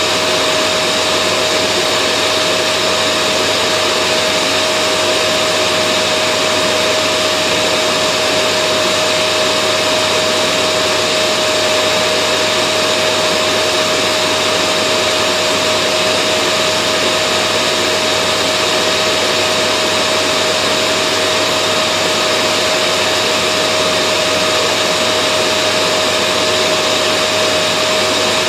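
Vacuum cleaner motor running steadily: a dense, unchanging hiss with a constant high whine, used as white noise to settle babies to sleep.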